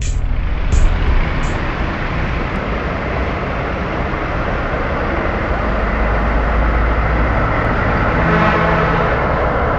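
Bus engine and road noise, a steady loud rumble with hiss. A steady pitched tone, like a horn, joins near the end.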